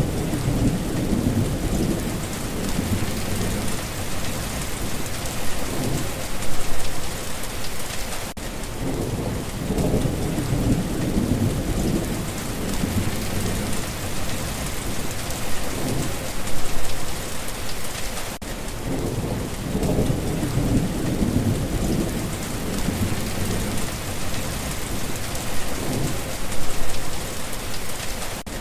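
Steady heavy rain with thunder rumbling low underneath. The rumbles swell and fade, peaking about every ten seconds.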